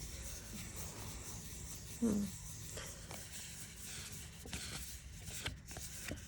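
Faint rubbing and light ticks of a tarot deck being handled, with a short voiced 'mm' from a woman about two seconds in.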